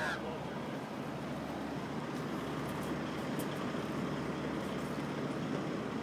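Steady outdoor background rumble like distant road traffic, with a brief call cut off right at the start and a few faint ticks in the middle.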